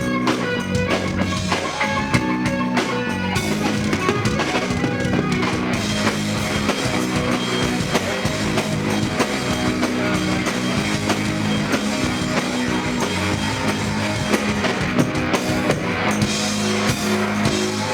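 Live rock band playing: electric guitars and drum kit.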